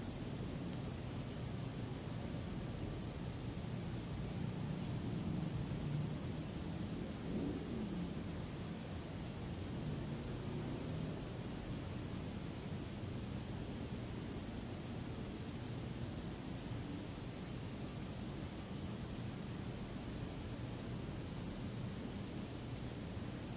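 Crickets trilling in one continuous, steady high-pitched drone, over a faint low background rumble.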